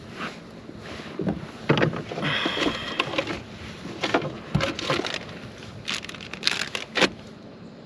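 Irregular clicks, knocks and handling noises of fishing tackle being handled in a plastic kayak while a soft-plastic Senko is rigged, with a short raspy scrape about two seconds in.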